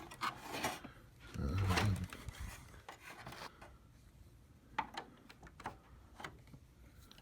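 Plastic scraping and clicking as a tool pries at the snap clips of an HP 3330 printer's plastic scanner cover. There is a longer, louder scrape about a second and a half in, then scattered small clicks.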